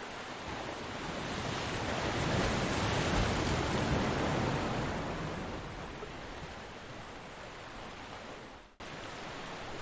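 Ocean surf on a beach: a wave swells up, peaks and washes out over a few seconds against a steady rush of surf. A split-second drop-out comes near the end.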